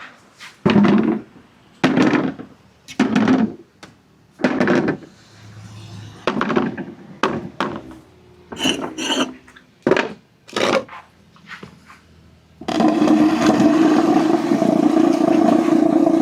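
Marbles rolling down wooden ramps: a series of short rolling runs, each about half a second, then one longer continuous roll of about four seconds near the end.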